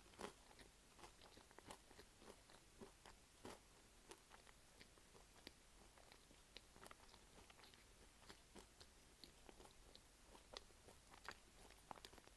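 Close-up chewing of a beef stew pie with crisp, flaky pastry: quiet crunching made of many small crackling clicks, with a couple of louder crunches.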